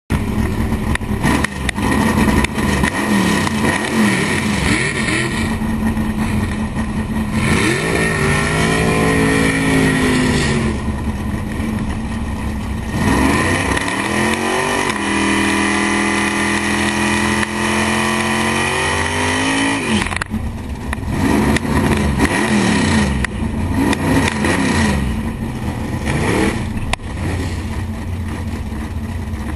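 468 cubic inch big-block Chevy V8 in a drag car, idling with a steady lope and revved several times: the pitch climbs, holds and falls back, about a third of the way in, again for several seconds around the middle, and once more past two-thirds.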